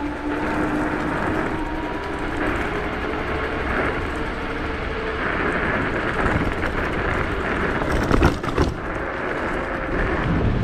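Electric scooters running: a steady noise with a faint, even whine in the first half, and a short loud burst of rumbling noise a little after eight seconds in.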